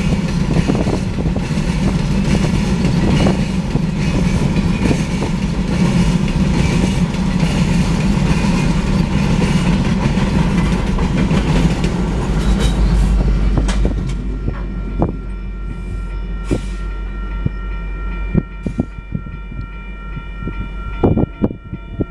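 A Union Pacific freight train's cars rolling past on the rails with a heavy rumble and wheel clatter. A deeper rumble swells about 12 seconds in as the rear distributed-power locomotive, an EMD SD70AH, goes by. At about 14 seconds the rolling noise drops away, leaving the crossing's bell ringing as steady tones with scattered clicks.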